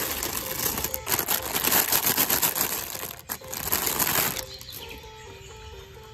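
A loud, rapid rattling noise over a simple background tune; the rattle stops about four seconds in, leaving the tune.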